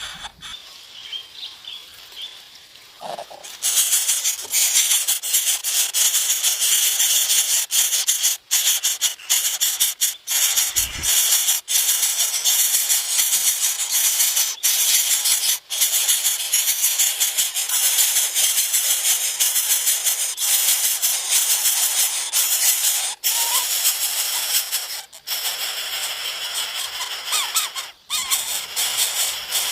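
A loud, dense rattling hiss, high-pitched, which starts abruptly a few seconds in and runs on with brief breaks.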